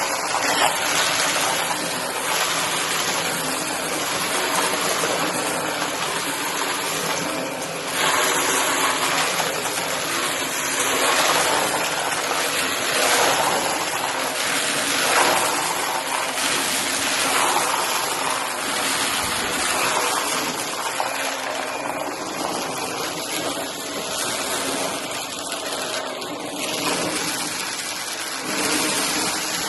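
Shark vacuum cleaner running steadily and sucking up pieces of cardboard, its rushing airflow swelling and easing every few seconds as it passes over the debris.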